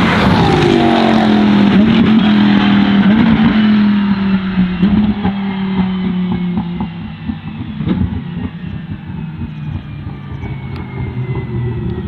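Lamborghini Huracán Super Trofeo EVO2 race car's V10 engine, its pitch falling away from high revs at the start, then holding a steady note that slowly fades, with scattered sharp cracks.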